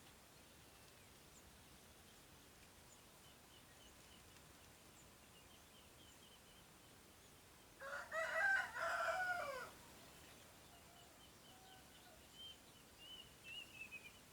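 A rooster crows once, for about two seconds, about eight seconds in. Faint, high chirps of small birds go on throughout, with a few more calls near the end.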